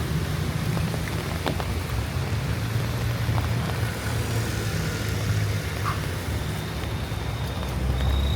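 Heavy rain falling steadily on a city street, with a low rumble of traffic underneath and a few faint drips and clicks.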